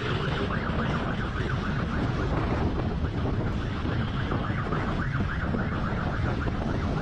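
Police motorcycle siren in a fast warble of quick rising chirps, several a second, over steady low engine and wind rumble.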